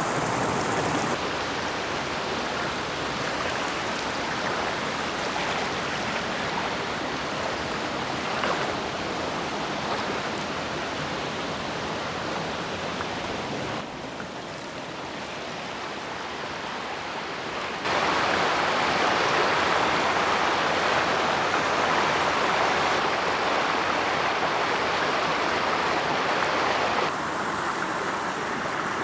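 Rushing water of a waterfall and creek: a steady, even hiss whose loudness jumps up or down abruptly a few times, loudest for several seconds in the second half.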